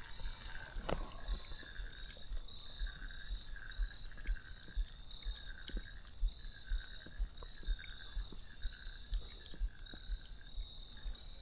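Spinning reel being cranked while playing a hooked trout: a rhythmic whir that repeats with each turn of the handle, a little faster than one turn a second, over a steady high whine.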